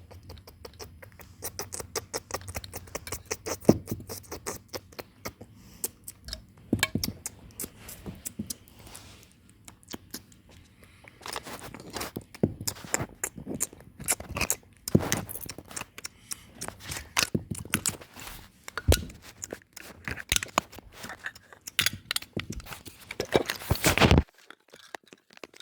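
Toy ice cream set pieces being handled: many small irregular clicks, taps and scrapes. They stop abruptly near the end.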